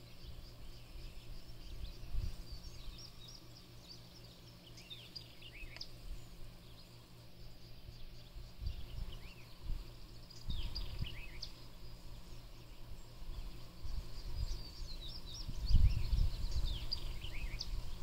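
Songbirds singing outdoors in bouts of quick, descending chirps, three times over, above a low rumbling noise that swells loudest near the end.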